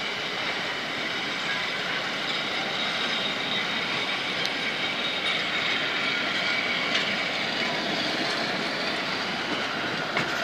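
Wooden heritage passenger carriages rolling past on the rails: a steady rumble and rattle of steel wheels on track.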